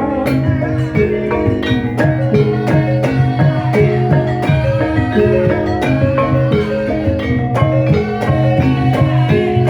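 Javanese gamelan ensemble playing an instrumental passage of a gendhing: struck metallophone notes layered in a steady rhythm over low sustained tones.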